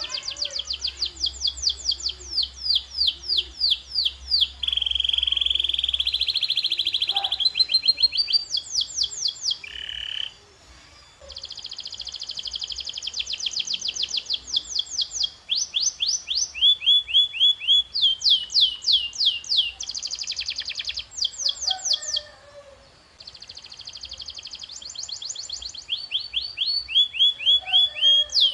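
Canary song: fast trills of repeated downward-sweeping whistled notes, changing from phrase to phrase, with a buzzy held note near the start and brief pauses about a third and three quarters of the way through.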